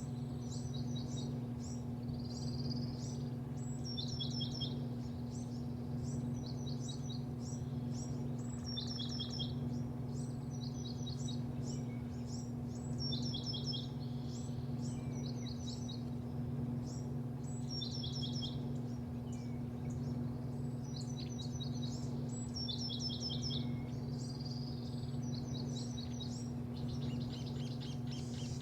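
Small birds chirping over and over in quick high clusters of notes, about every second or two, above a steady low mechanical hum.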